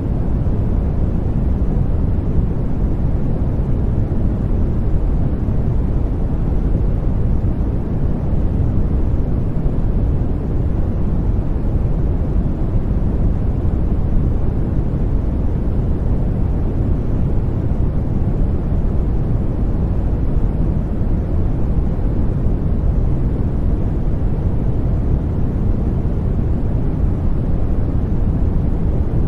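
Continuous white noise for baby sleep: a steady, even rushing hiss, heavy and deep in the low end, with no changes.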